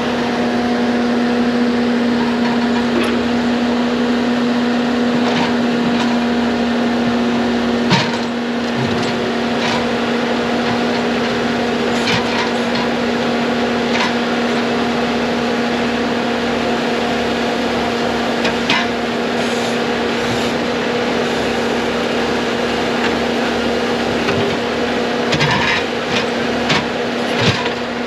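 Heavy excavator's diesel engine running steadily at one pitch, with scattered knocks and scrapes from the machine at work, several of them close together near the end.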